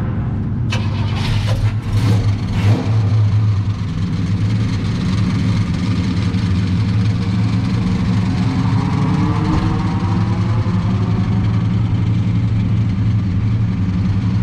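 A car engine running steadily at idle, with a few sharp bursts of noise in the first few seconds.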